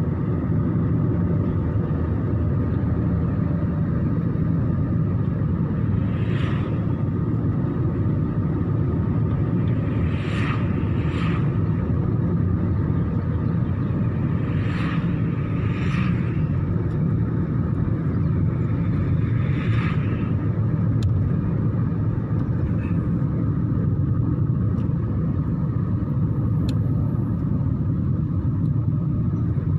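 Steady low rumble, with about six brief higher-pitched sounds scattered through it and a few faint clicks.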